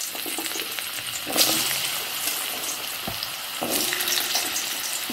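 Potato cubes sizzling and crackling in hot mustard oil in a kadai. The sizzle surges louder about a second and a half in and again past three and a half seconds as more pieces go into the oil, with one dull knock in between.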